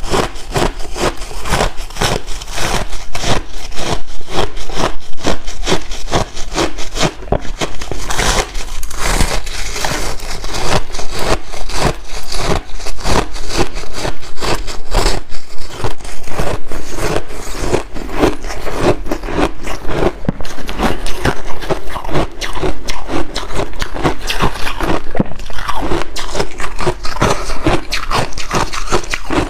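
Close-miked crunching and chewing of white ice: a dense, loud run of crisp crunches and crackles with some scraping.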